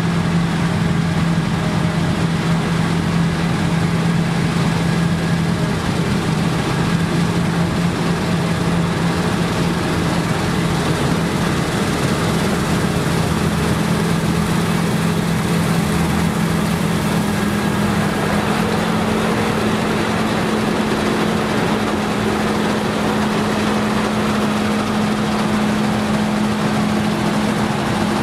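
Claas Lexion combine harvesters running steadily while working in rye: a continuous engine hum over a broad machine noise. The engine note steps slightly higher about halfway through.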